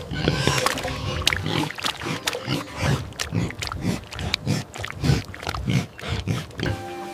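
Farm animals making a rapid, irregular series of short sounds, several a second.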